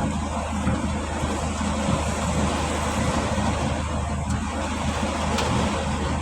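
Heavy rain pelting a stopped vehicle in strong wind, a steady noise, with the low hum of its idling engine underneath.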